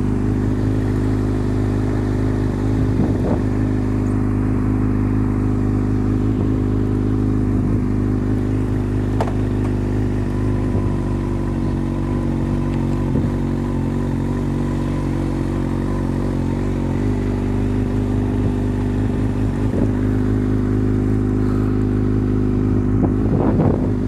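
Kawasaki ZX-6R inline-four engine running at a steady rpm as the motorcycle cruises, with wind rushing over the microphone. Near the end the engine note briefly rises.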